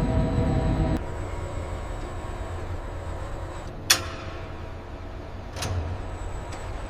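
Machinery hum with several steady tones that drops away about a second in, leaving a low rumble. A sharp metallic clank comes about four seconds in, and a softer one a little before the end.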